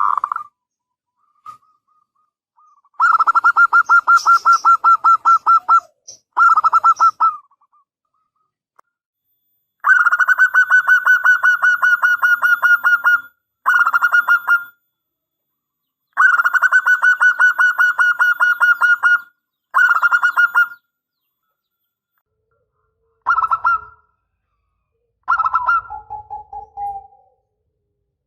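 Zebra dove (perkutut) cooing: several long runs of rapid, evenly pulsed notes about five a second, each run lasting a few seconds. Near the end come shorter phrases that drop to a lower note.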